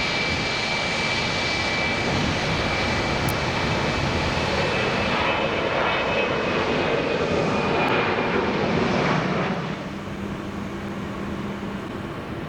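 Boeing 737-800's twin CFM56 turbofans at take-off thrust: a loud, steady jet noise with a thin high whine over it. The noise drops off sharply about nine and a half seconds in.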